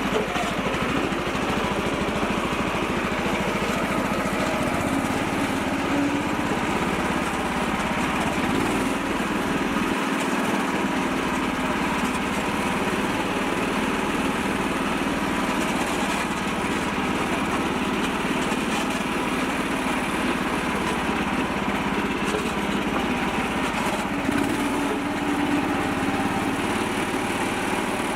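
Small tractor engine running steadily at a constant speed.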